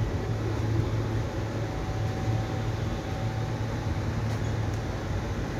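Deccan Queen Vistadome passenger coach running, heard from inside: a steady low hum with running noise over it.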